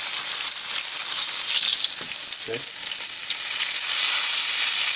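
Stuffed chicken roulades frying in hot oil in a stainless steel skillet, giving a steady sizzle.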